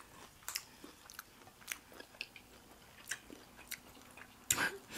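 Faint close-miked eating sounds: soft chewing and scattered mouth clicks, with a brief louder burst of noise near the end.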